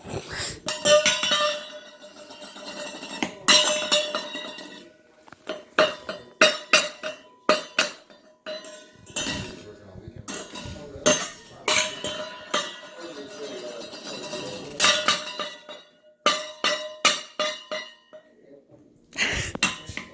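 A young child banging on metal cookware, irregular clanging and clinking strikes that leave a steady ringing tone, coming in clusters with short pauses between them.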